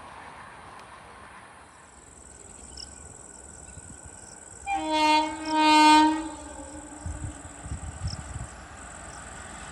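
Train horn sounding two blasts about five seconds in, the second longer and louder, at a steady pitch. Low rumbling follows.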